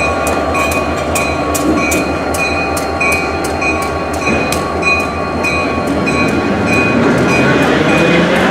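Locomotive bell ringing in a steady rhythm, each strike ringing on in clear metallic tones, over a low rumble that rises slightly in pitch near the end.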